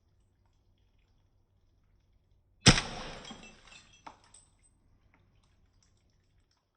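A single sharp crack, likely a shot from a Colt M1911 airsoft pistol, trailing off over about a second and a half. A lighter click follows just under a second and a half later.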